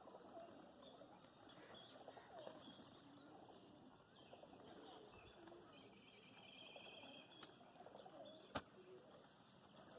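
Faint scattered chirps and calls of birds feeding, with a short rapid trill a little past the middle. A single sharp click near the end stands out as the loudest sound.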